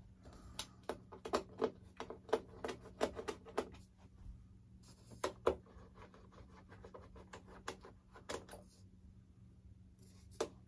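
Irregular small clicks and taps from a screwdriver, loose screws and the plastic parts of an RC jet being worked on by hand. They come in clusters: a busy run from about half a second in to nearly four seconds, more around five seconds and eight seconds, and a few near the end.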